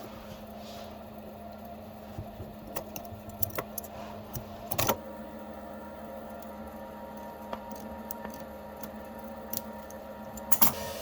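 Scattered light clicks and clinks of small hard parts being handled over a steady low hum. The sharpest knock comes about five seconds in, with a short cluster of clicks near the end.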